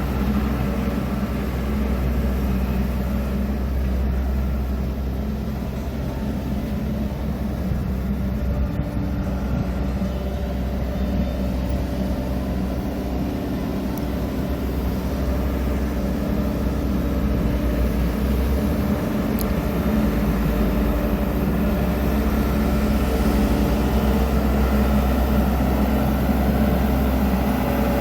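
Engine running steadily at a constant speed, a continuous low hum that grows slightly louder near the end.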